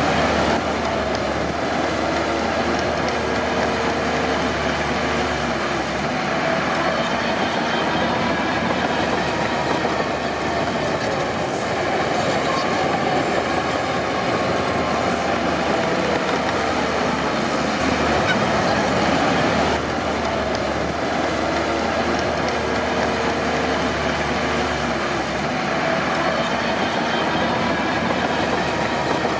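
Crawler bulldozer working, its engine running steadily with the steel tracks clattering and giving a wavering squeal.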